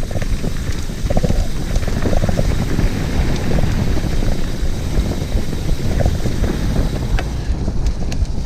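Wind buffeting the microphone of a camera riding along on a mountain bike over a muddy trail, a loud steady rumble with scattered small knocks and rattles from the bike.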